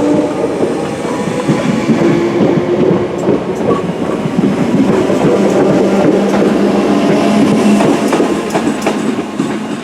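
Class 313 electric multiple unit moving past at close range, its traction motors humming over a continuous clatter of wheels on the rails.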